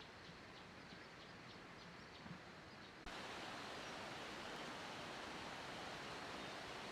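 Faint outdoor ambience with a run of small high chirps. About three seconds in, it switches abruptly to a steady, louder hiss.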